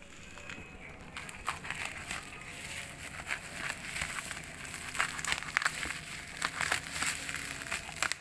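Packaging being handled: irregular crackles, clicks and crinkling that come thicker after about a second.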